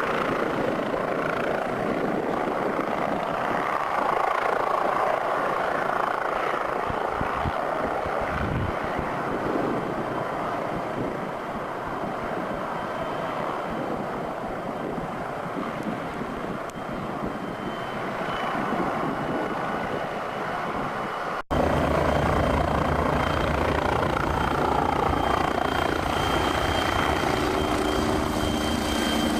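MBB Bo105 helicopter's rotor and turbine engine noise, steady and fairly loud. About 21 seconds in it cuts abruptly to a steadier drone with a low hum and a faint high whine.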